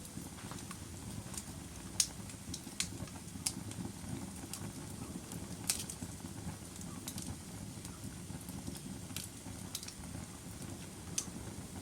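Wood fire of burning logs crackling: a steady low rumble of flames with irregular sharp pops and snaps, the loudest about 2, 6 and 11 seconds in.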